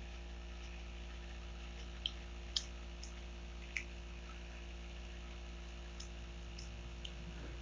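A small child chewing a chocolate chip cookie: a handful of short mouth clicks, the sharpest about two and a half seconds in, over a steady low hum.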